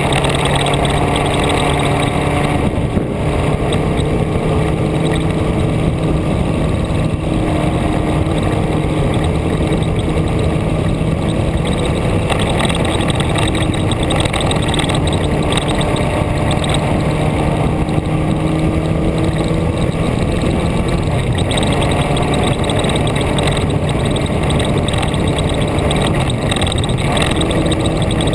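Vehicle driving at speed: a steady engine hum whose pitch drifts gently up and down with the speed, under heavy road and wind noise.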